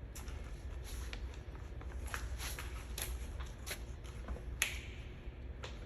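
Scattered light clicks and rustles of gear being handled and set down, the sharpest click about four and a half seconds in, over a low steady rumble.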